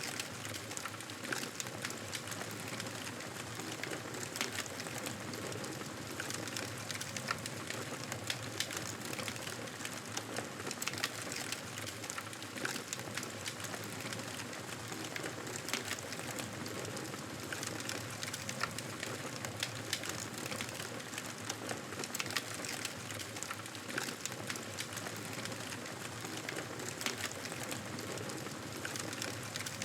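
Campfire burning steadily: wood crackling with frequent sharp pops over a continuous hiss.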